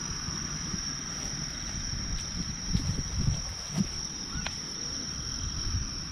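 Insects, crickets, trilling steadily on one high tone, with a few low bumps in the middle.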